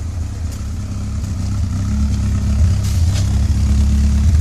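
2.0-litre Ford Pinto four-cylinder engine of a Robin Hood kit car idling steadily through a 4-into-1 race exhaust manifold, a low, even burble that grows gradually louder.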